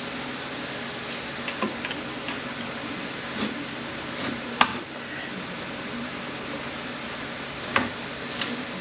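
Small metal parts of an A650E automatic transmission being handled on the bench: scattered clicks and clinks, the sharpest about halfway through, over a steady fan hum.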